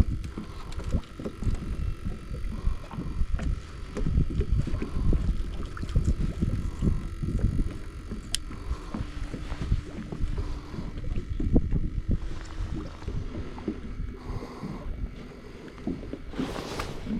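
Wind buffeting the microphone aboard a small fishing boat, an uneven low rumble with a faint steady hum under it, and a brief rushing noise near the end.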